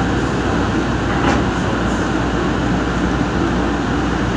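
Nippon Sharyo light rail car running along the track, heard from inside its cab: steady running noise of wheels on rail, with a short click about a second in.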